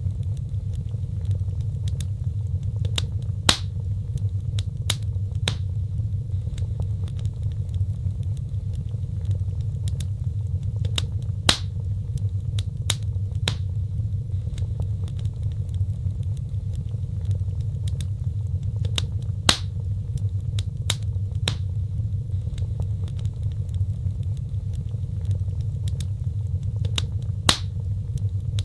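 Wood fire crackling: scattered sharp snaps and pops, a few of them louder, over a steady low rumble of the flames.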